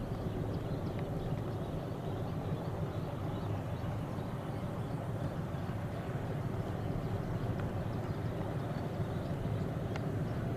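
Passenger train running at steady speed: a continuous low rumble, with a few faint clicks.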